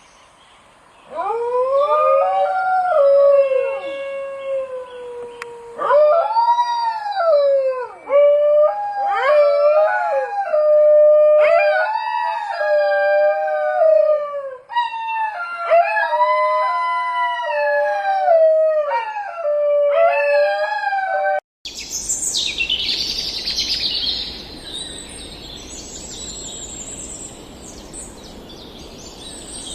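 A dingo howling: a run of long, wavering howls that rise and fall in pitch, with short breaks between them. About 21 seconds in the howling cuts off and birds chirp over a steady outdoor hiss.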